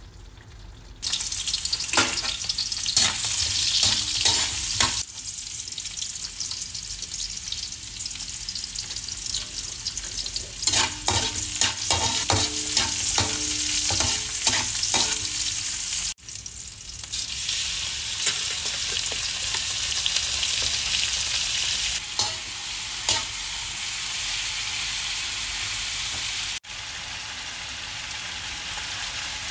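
Onion, ginger and then chicken pieces sizzling in hot oil in a wok, with a spatula stirring and knocking against the pan in quick clusters of clicks. The sizzling starts about a second in and breaks off abruptly twice at cuts.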